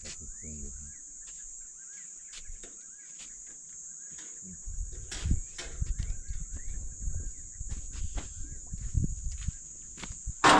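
A steady high-pitched insect chorus, with a bird repeating short chirps over it. From about halfway, irregular low thumps, rustles and clicks come in, like footsteps and handling close to the microphone.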